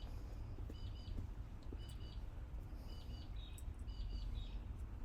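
A bird chirping over and over, short high calls that each step quickly between two pitches, a little under a second apart, over a low steady hum.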